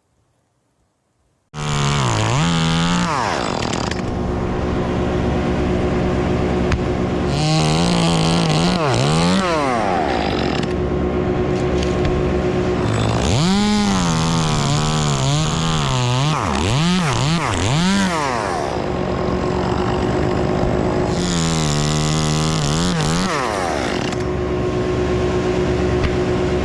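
Two-stroke chainsaw engine starting loud about a second and a half in, its pitch swinging up and down in repeated spells of revving between steadier running.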